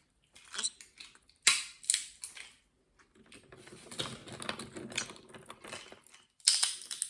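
Walnut shells cracking and crunching: a few sharp snaps, then a stretch of quicker small crunches, and one more loud snap near the end.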